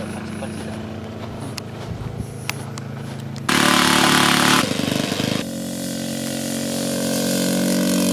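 A small engine running steadily, with a sudden louder rushing stretch about halfway through, after which the engine note gradually grows louder.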